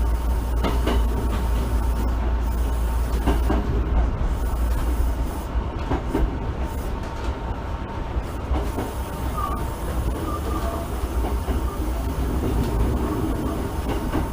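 Running sound inside an unrefurbished Osaka Municipal Subway 66 series car at speed: a steady rumble of wheels on rail, with rail-joint clicks every few seconds. The deep rumble lightens about halfway through.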